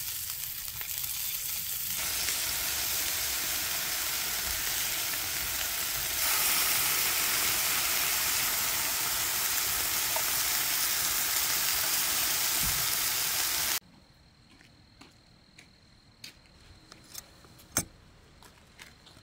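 Sausages and bacon sizzling in an electric skillet: a steady frying hiss that gets louder in two steps, then cuts off suddenly about two-thirds of the way through. After it, a much quieter stretch with a few faint clicks.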